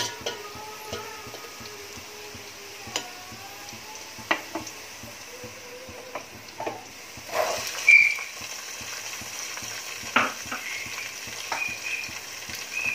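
Sliced onions sizzling in hot oil in a large aluminium pot, with a steel ladle scraping and clinking against the pot. There are a few louder bursts of sizzling as raw vegetables (peas, carrots, green beans) are tipped into the hot oil.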